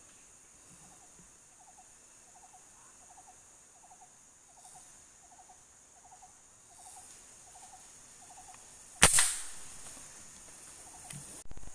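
A single shot from a PCP air rifle about nine seconds in: a sharp crack with a short ringing tail. Before it, a quiet call of short trilled notes repeats about twice a second. A smaller knock comes near the end.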